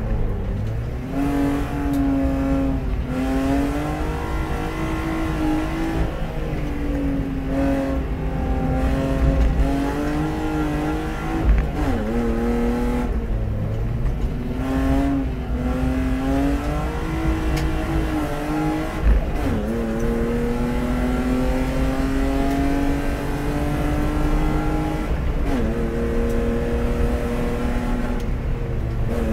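In-car sound of a BMW E36 320i race car's 2.0-litre straight-six engine pulling hard uphill, its pitch climbing through each gear and dropping sharply at gear changes and lifts for corners, several times. A few sharp knocks stand out over the engine, the loudest about twelve seconds in and again near twenty.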